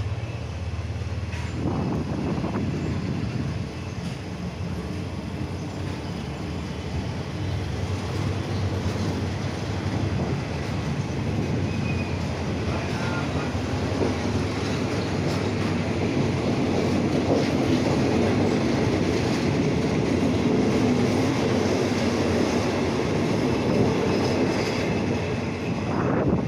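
A train running on the rails: a steady rumble of wheels on track with scattered clicks, growing louder through the second half.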